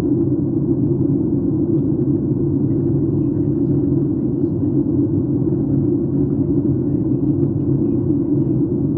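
Steady airliner cabin noise in flight: an even, low rumble of the jet engines and airflow on the fuselage, with no change in level.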